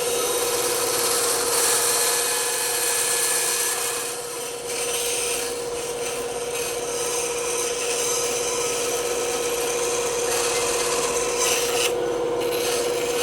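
Bandsaw running with a steady hum while its blade cuts through wood, a continuous rasping hiss that eases briefly about four seconds in and again near the end.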